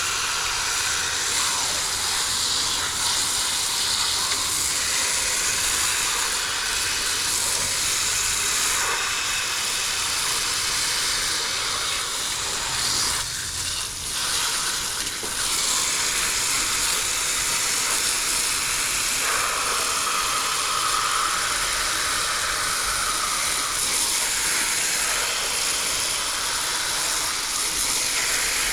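Steady hiss of water spraying from a garden hose onto a frozen heat pump's iced outdoor coil to melt the ice off, dipping briefly about halfway.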